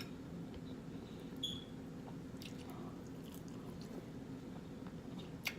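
Faint mukbang eating sounds: wet squishing of sauce-covered seafood being handled and chewed, with a few small clicks, over a steady low background hum.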